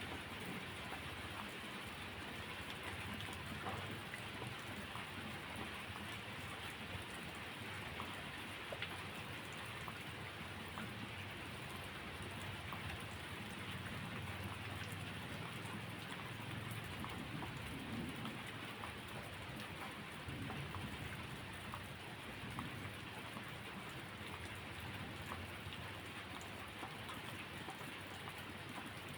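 Steady rain falling, with scattered light drip-like ticks and a soft low rumble underneath.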